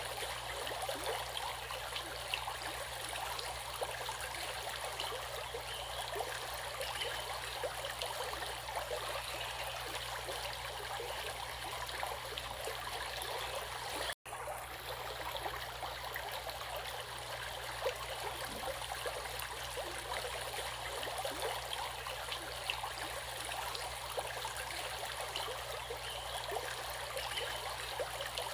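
Flowing water, a steady, even rush like a stream running over rocks. It cuts out for an instant about halfway through, then carries on unchanged.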